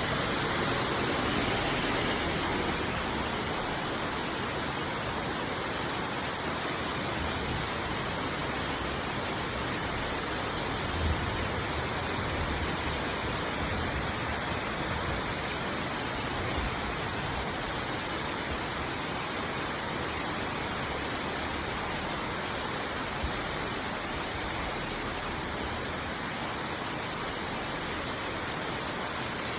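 Heavy rain falling in a steady, even downpour, with a few brief low bumps, the plainest about eleven seconds in.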